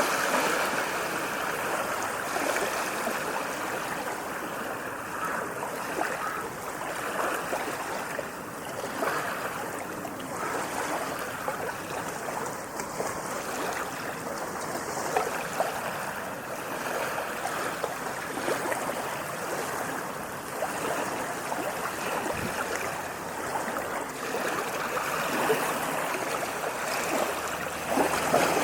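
Moving water, a steady splashing rush with small gurgles and crackles, swelling a little at the start and again near the end.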